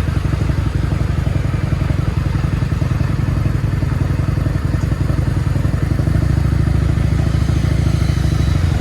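Motorcycle engine running during a ride, a steady low rumble that grows a little louder about six seconds in.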